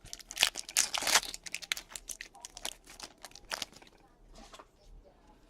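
Plastic trading-card packaging being torn open and crinkled by hand, a dense run of crackling in the first two seconds, then scattered lighter crackles.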